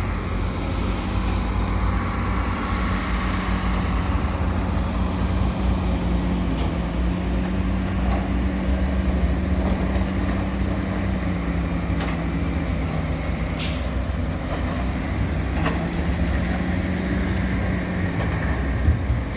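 Diesel engines of an excavator and dump trucks running steadily: a low rumbling drone with a wavering engine hum. A brief sharp hiss comes about two-thirds of the way through.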